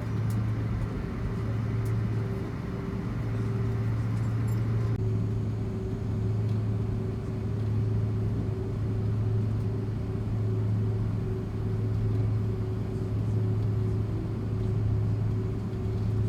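Steady airliner cabin drone inside an Airbus A330-300 taxiing after landing: a low hum with a steady mid-pitched tone over a hiss of air. The hiss eases slightly about five seconds in.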